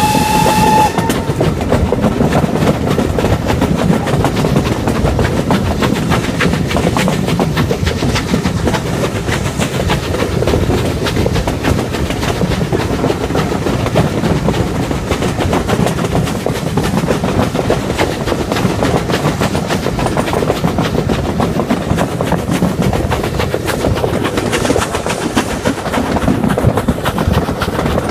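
Passenger coach of a heritage train running along the line, heard from an open carriage window: a steady rumble of wheels on rail with a run of clickety-clack. A whistle sounds briefly at the very start.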